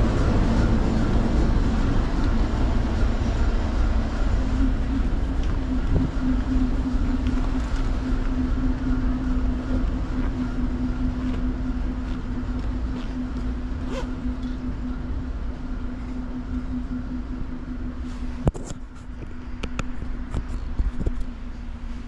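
Freight train rumbling on nearby rail tracks, with a steady droning hum under it; the rumble gradually dies down, and there is one sharp click near the end.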